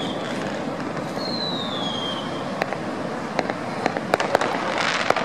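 Fireworks going off: a whistle falling in pitch about a second in, then a string of sharp cracks from about halfway that thicken into crackling near the end.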